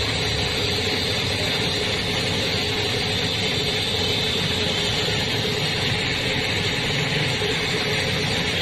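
Steady machine noise in a car body shop: a continuous hum with a hiss over it, unchanging throughout.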